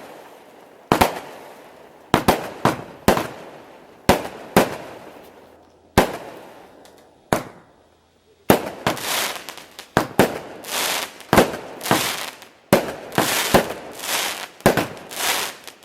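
Fireworks going off: sharp bangs, each followed by a trailing echo, spaced a second or so apart at first. From about halfway in they become a rapid, dense run of bangs and crackles.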